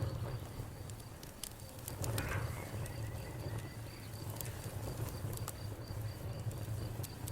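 Campfire burning with scattered crackles and pops over a steady low rumble, a small flare of crackling about two seconds in. A faint high insect chirp pulses evenly in the background.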